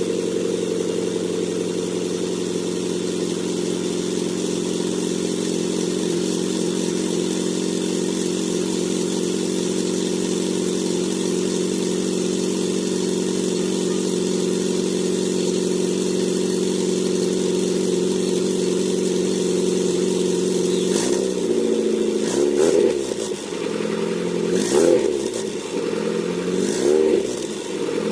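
VAZ-2114 inline-four idling steadily through its modified exhaust, then blipped several times in the last few seconds, the note rising and falling with each rev.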